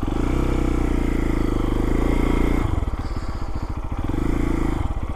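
Lifan KPX250's single-cylinder four-stroke engine running as the bike is ridden. The throttle is held open, eased off after about two and a half seconds, opened again, then eased off near the end.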